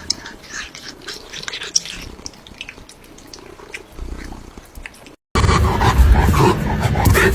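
Cat crunching food with many small sharp clicks and a soft purr. About five seconds in the sound cuts out for a moment and a much louder, noisy stretch with a low rumble begins.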